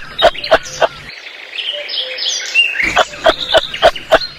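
Chirping, clicking animal calls: a quick run of sharp clicks about three a second, a twittering stretch in the middle, then more clicks.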